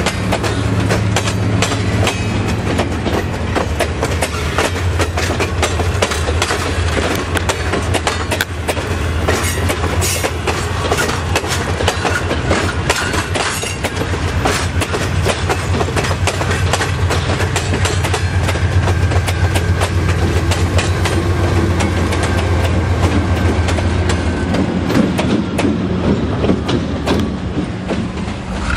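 Passenger cars of the Seminole Gulf Railway dinner train rolling past close by, their wheels clacking over the rail joints, with a steady low hum underneath that fades near the end.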